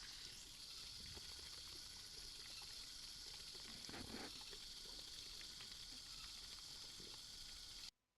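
Faint steady hiss of background noise, with a soft brief sound about four seconds in. It cuts off abruptly to dead silence near the end.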